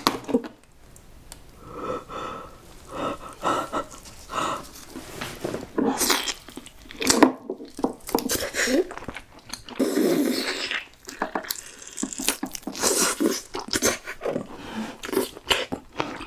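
Close-up eating sounds: a person chewing and biting food, with many short, sharp mouth clicks and irregular bursts of noise.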